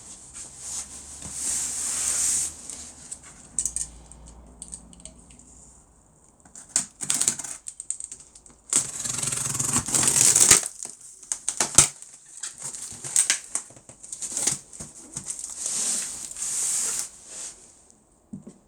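A cardboard box being cut into by hand to make a carrying handle: irregular scraping and crackling strokes of a blade through the cardboard, with sharp clicks in between, the longest stroke about halfway through.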